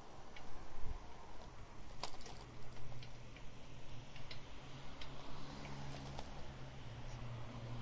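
Light ticking of a bicycle freewheel while coasting, with scattered clicks and a low steady hum joining about two seconds in.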